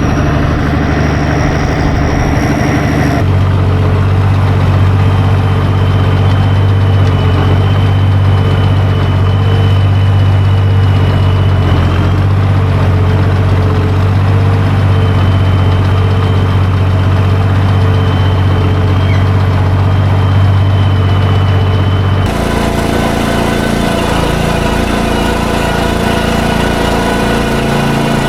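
Tractor engine running steadily while driving a feed mixer wagon's auger, with a thin high whine that comes and goes. The engine sound changes abruptly about 3 seconds in and again near the end.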